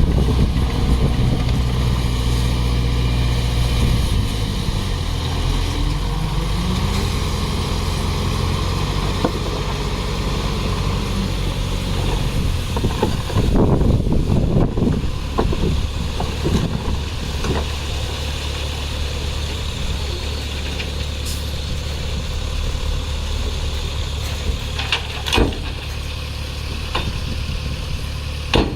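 Heavy diesel engine of earthmoving equipment running, its pitch climbing a few seconds in as it revs up, then holding steady. A cluster of knocks and clanks comes about halfway through, and a few sharp clicks near the end.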